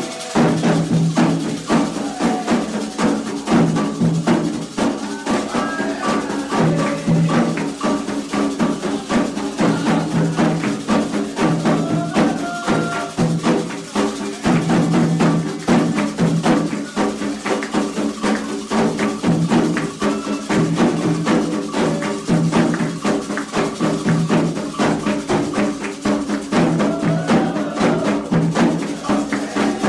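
Candomblé ritual drumming: atabaque hand drums played in a fast, steady rhythm with a struck percussion pattern over it, going on without a break.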